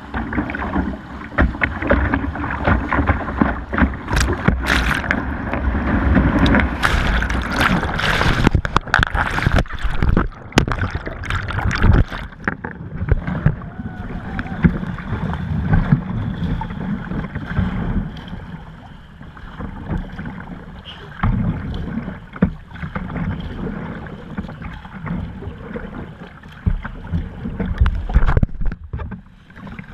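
Rushing whitewater and splashing around a kayak playing in a river hole, with heavy sharp splashes in the first half that settle into a steadier rush of water and wind on the microphone.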